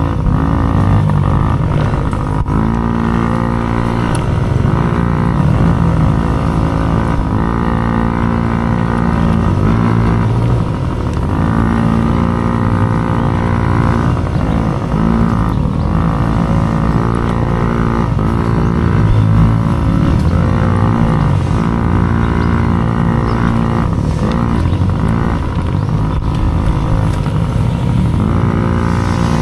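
Small dirt bike engine revving hard, its pitch climbing and then dropping again every one to three seconds through acceleration and shifts or throttle-offs.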